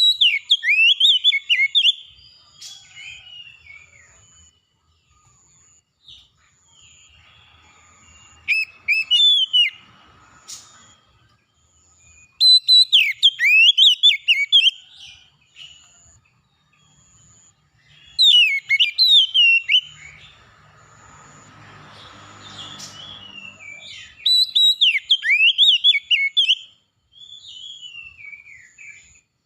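Oriental magpie-robin (kacer) singing loud bursts of rapid, varied whistled phrases, five of them with short pauses between. Behind the song a faint high note repeats about once a second, and a low muffled noise rises and fades about two-thirds through.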